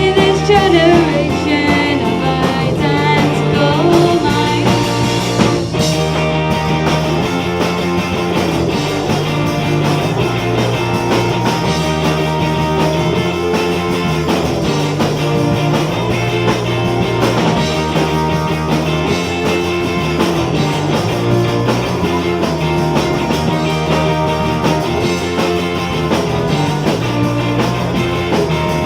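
Live rock band playing: guitar, bass and drums, with a female voice singing over the first few seconds before the band carries on without vocals.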